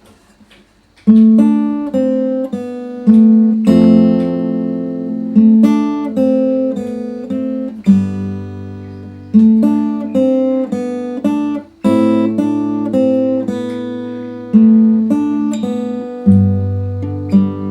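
Acoustic guitar played fingerstyle: a bass line with a plucked melody and chords on top, in a steady rhythm with accented strikes every second or so. It starts about a second in, after a moment of quiet.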